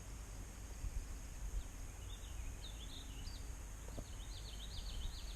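Outdoor ambience by a creek: a low steady rumble, with a songbird singing quick rising-and-falling chirps from about two seconds in.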